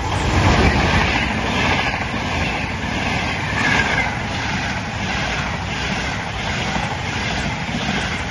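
Frecciarossa high-speed electric passenger train passing close by at speed: a loud rush of wheels on rail and air that swells in the first second. It stays loud, pulsing about twice a second as the coaches go by.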